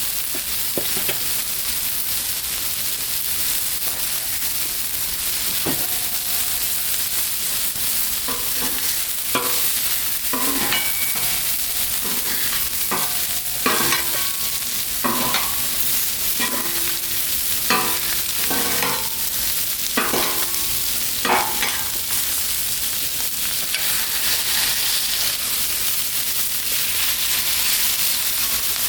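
Sausage frying on a Blackstone flat-top griddle with a steady high sizzle. From about eight to twenty-two seconds in, a run of short metallic clinks and scrapes, like a spatula working on the steel cooktop, sounds over it.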